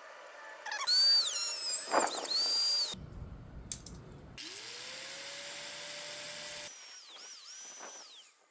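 Power tool running in several short spells that start and stop abruptly, its high whine rising and falling in pitch as it cuts a notch for a woodruff key in a metal shifter part.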